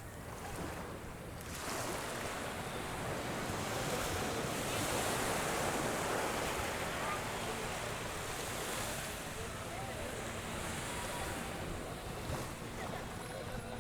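Small sea waves washing up on a sandy beach, a steady rushing that swells and eases, with light wind buffeting the microphone.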